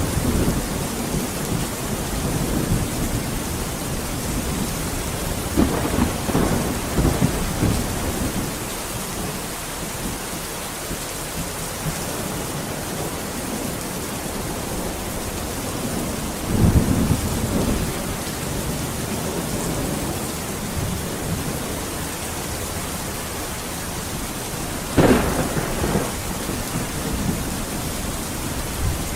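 Steady heavy rain with thunder rumbling three times: a long roll about six seconds in, another about seventeen seconds in, and a sharper, closer clap about twenty-five seconds in.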